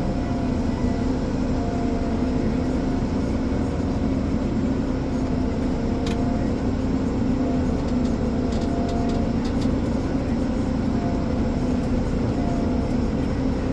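Ponsse Elephant forwarder's diesel engine running steadily as the machine drives along, with a few faint light clicks.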